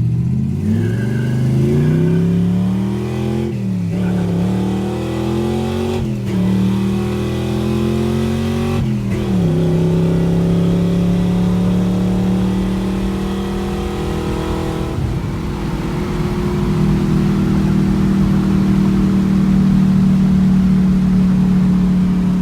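327 small-block V8 accelerating hard through the gears of a four-speed manual: the engine pitch climbs, falls sharply at each of three quick upshifts a few seconds apart, then holds steady at cruising speed.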